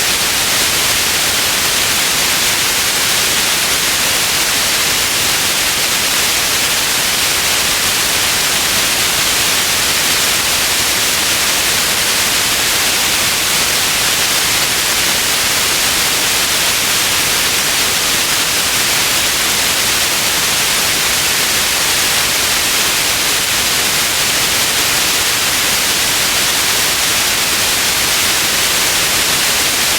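Steady white noise: an even, unchanging hiss with most of its energy in the upper range.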